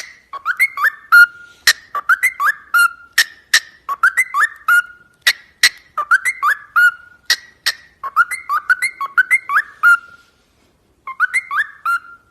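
A parrot whistling a short phrase of quick rising notes over and over, about once a second, with sharp clicks between the phrases. It pauses for about a second near the end, then starts again.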